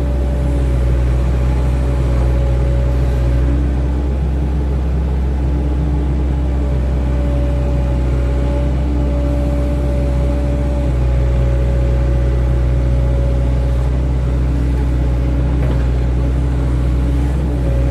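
Excavator's diesel engine running steadily under work, with a machine whine that fades in and out every few seconds.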